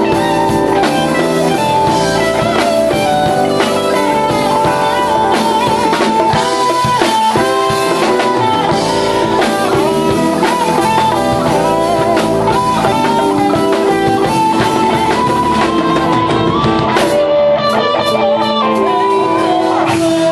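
A band playing: a lead guitar line over drum kit, bass and keys, loud and continuous.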